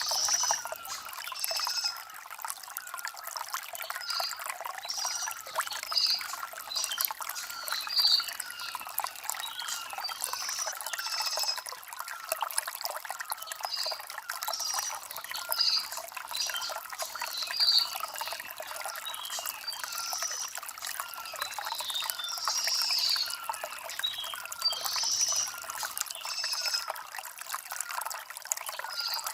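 Shallow stream water trickling and gurgling over stones. Birds chirp repeatedly, with short high chirps every second or two.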